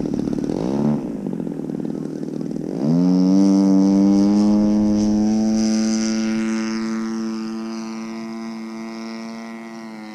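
DLE 35RA single-cylinder two-stroke gas engine on an RC aerobatic plane, freshly rebuilt with a new top end: it blips up and down at first, then is throttled up sharply about three seconds in to a steady high-power note. The note then fades steadily as it goes on.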